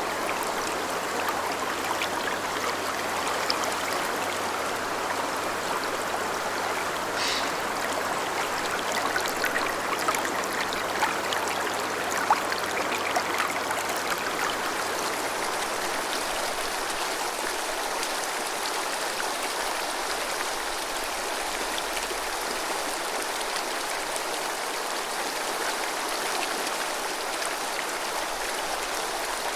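Clear snowmelt mountain river babbling steadily over stones, a continuous rushing hiss with small splashes.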